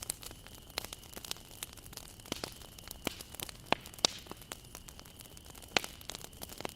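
Wood fire crackling as it burns, with irregular sharp pops and snaps over a low hiss; the loudest pops come around four seconds in and again near six seconds.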